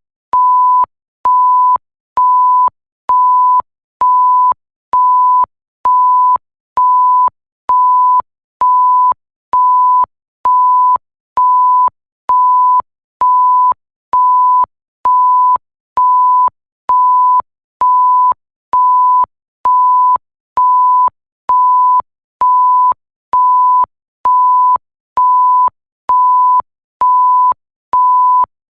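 Electronic bleep: a pure tone at about 1 kHz, the classic censor bleep, repeating at an even rate of about one a second, each beep lasting most of the second with a short gap between, and a faint click as each one switches on and off.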